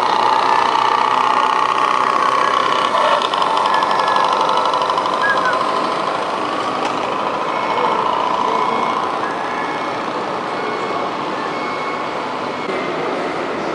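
Radio-controlled model truck running with a steady motor whine, then a reversing beeper in the second half, about one beep a second.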